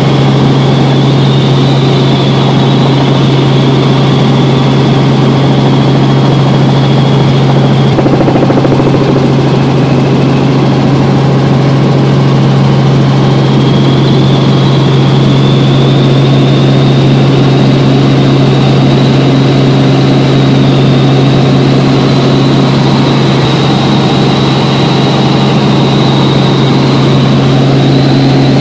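Helicopter in flight: a loud, steady low drone with a high whine above it that wavers slightly in pitch and fades for a few seconds near the middle.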